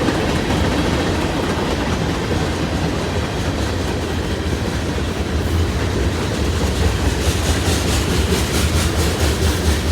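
Freight train cars rolling past at speed: a steady low rumble of wheels on rail. In the second half, a quick run of clicks comes as wheels cross rail joints.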